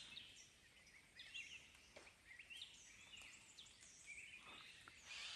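Faint chorus of small birds chirping, with many short, overlapping high calls and quick rising and falling notes.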